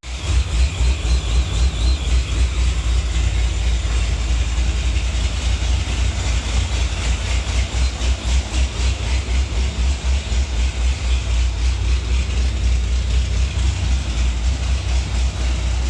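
Modified late-model V8 idling with an uneven, pulsing rumble, a gnarly-sounding exhaust note, with shop cooling fans blowing steadily over it.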